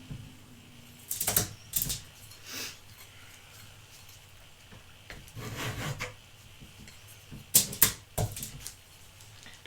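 Close-up handling noises: short clicks and scrapes of small objects being handled, in a few brief clusters about a second in, around two and a half seconds, near six seconds and around eight seconds.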